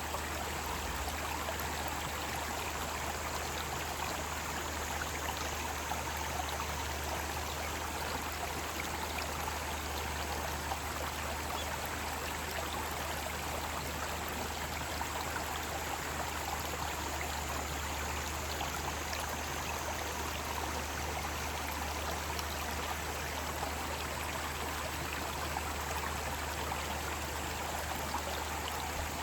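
Mountain stream water rushing steadily over rocks, a continuous even splashing.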